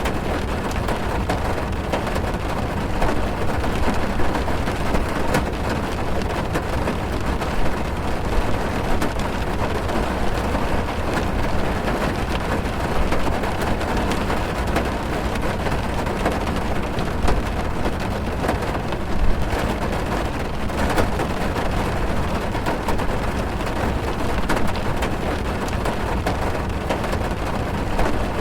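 Steady heavy rain drumming on a car's roof and windows, heard from inside the car as a dense, even patter with many small individual drop ticks.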